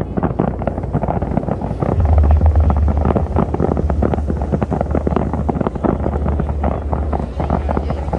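Wind buffeting the microphone, with a strong low rumble that comes in about two seconds in and holds steady.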